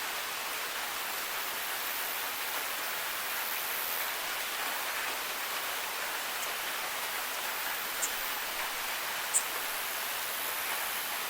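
Steady rain falling, an even hiss, with a couple of sharp clicks of drops in the last few seconds.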